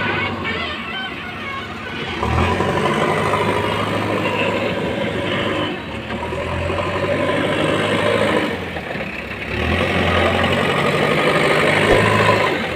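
Heavy diesel engine of a backhoe loader working, its revs rising and falling several times as it loads.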